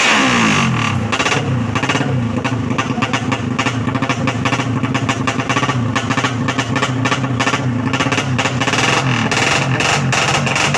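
Race motorcycle engine, its pitch dropping just at the start as the revs fall, then running at lower revs with a rapid, uneven crackle.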